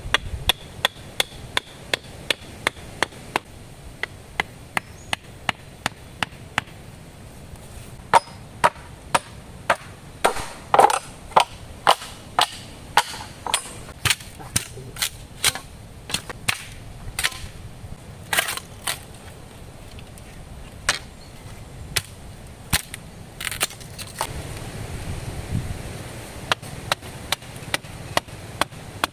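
Wood being chopped: a long run of sharp, regular strikes, about two a second, that thins out for a few seconds past the middle before picking up again.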